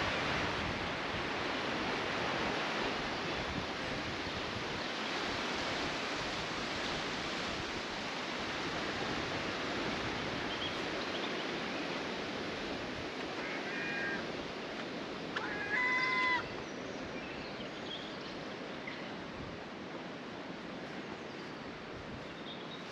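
Steady rushing of flowing water that slowly fades. Bird calls break in past the middle: a few short calls, then one louder call lasting about a second.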